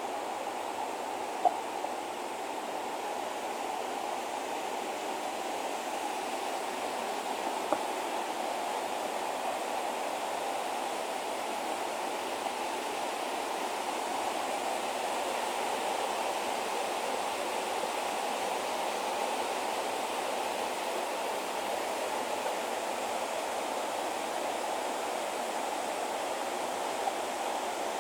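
Waterfall water rushing steadily, with two brief sharp ticks in the first eight seconds.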